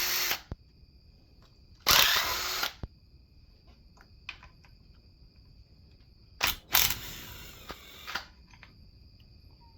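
Handheld power driver or drill run in short bursts of about a second, four times, spinning fasteners during an engine teardown.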